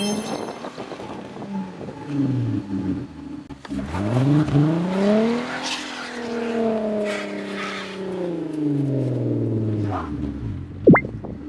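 A car engine revving: its pitch climbs steeply about four seconds in, holds high for a few seconds, then falls back. A short sharp rising squeak near the end is the loudest moment.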